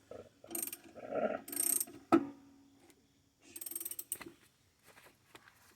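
Socket ratchet clicking in short runs as it is worked on a lawn mower's blade bolt. About two seconds in there is a single sharp metallic snap, the loudest sound, which rings briefly.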